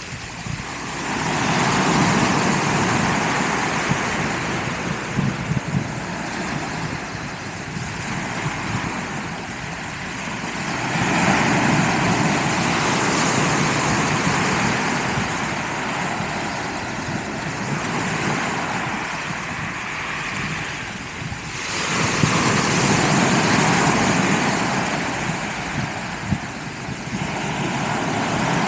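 Sea waves breaking on the beach and washing back, swelling in a long surge roughly every ten seconds.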